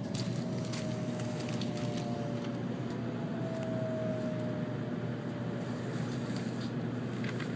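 N700-series Shinkansen heard from inside the carriage, pulling into a station platform: a steady low rumble from the running gear with a faint whine that slowly falls in pitch as the train slows. A few light clicks near the end.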